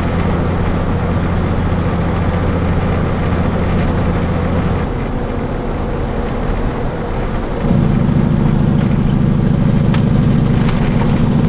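Motor vehicle driving: steady engine and road noise, with the engine sound growing louder about two-thirds of the way through.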